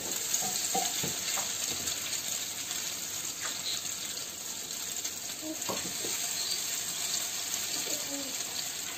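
Slices of egg-and-milk-soaked bread sizzling steadily as they fry in a frying pan, with a few light knocks as they are turned.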